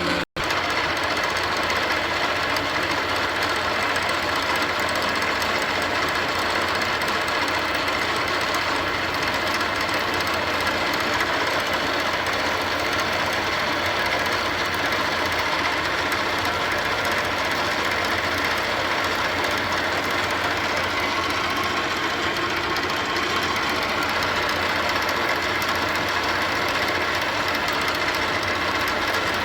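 Steady machinery running: a continuous, even engine-like din that does not change, with a split-second dropout just after the start.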